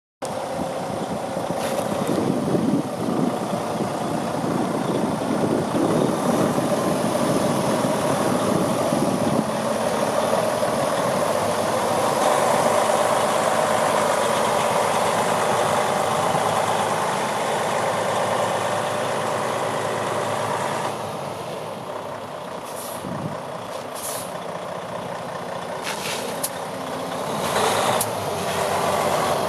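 A heavy vehicle running, heard as a steady mechanical rumble that eases off after about twenty seconds. A few sharp knocks come near the end.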